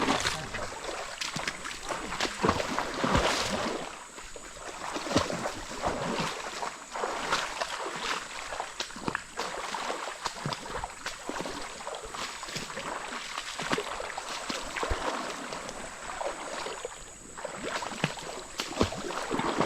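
River water splashing and sloshing in irregular bursts over the steady rush of the river's flow.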